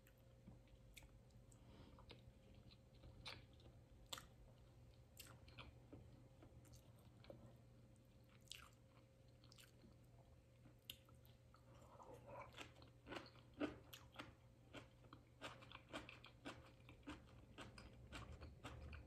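Faint close-miked chewing: soft mouth clicks and smacks, sparse at first and coming more often in the second half, over a low steady hum.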